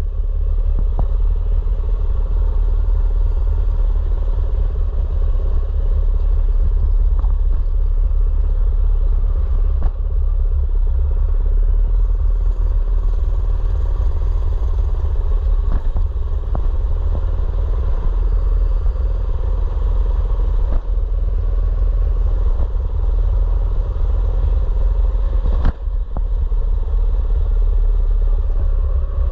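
A mini bike's small engine running steadily while riding, with heavy wind rumble on the camera microphone and an occasional knock or clatter.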